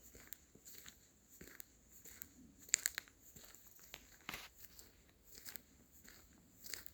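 Footsteps crunching on leaf litter along a forest path, an uneven run of short crunches and crackles, loudest a little before the middle.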